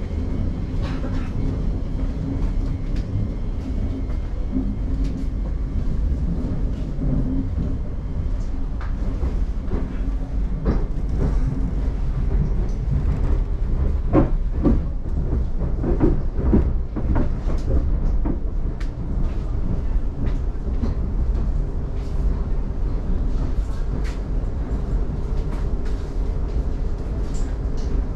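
Inside a Class 717 electric multiple unit running in tunnel: a steady low rumble of the train, with a run of clicks and knocks from the wheels over the rails about halfway through.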